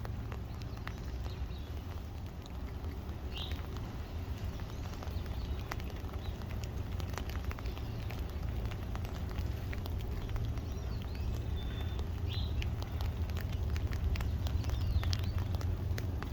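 Light rain pattering, with scattered sharp drip clicks over a steady low rumble. A few brief bird chirps come through faintly.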